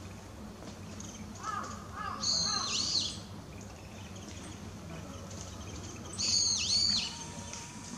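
Wild bird calls: two loud, high-pitched calls about four seconds apart, each a quick run of swooping notes, with a few shorter, lower notes just before the first. A faint steady low rumble lies underneath.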